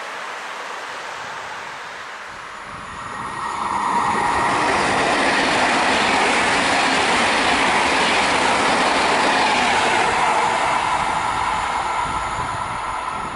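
A DB Class 612 diesel multiple unit passes close by at speed. The noise of its engines and wheels on the rails swells a few seconds in, holds loud, then fades as the train moves away.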